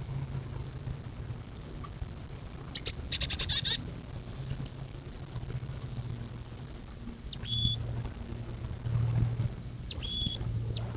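Songbirds calling: a quick rapid chatter about three seconds in, then clear whistled notes that sweep steeply down in pitch, one about seven seconds in and two more near the end. A steady low hum sits underneath.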